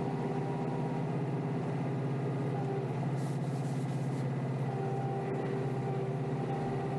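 Kioti DK5320SE tractor's diesel engine running steadily.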